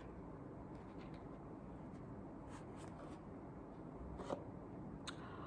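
Faint rustling and handling as an item, a ball of coloured yarn, is taken out of a box, with a few soft taps.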